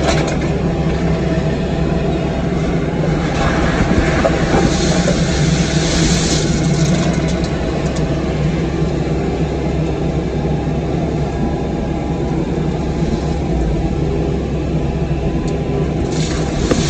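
Cat 305 mini excavator's diesel engine running steadily while working, with occasional clatter from the machine.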